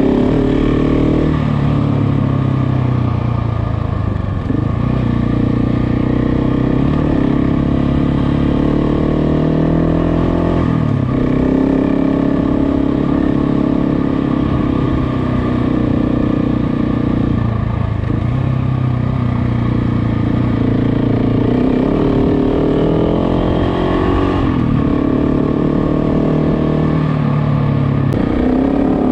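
KTM motorcycle engine under way, repeatedly rising in pitch as it accelerates and dropping back at each gear change or roll-off.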